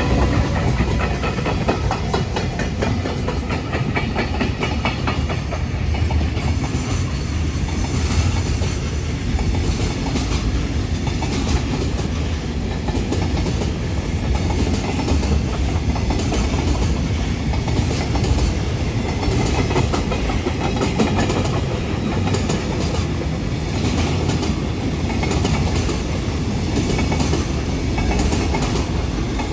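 A train passing close by over a level crossing, its wheels clacking steadily over the rail joints for the whole stretch.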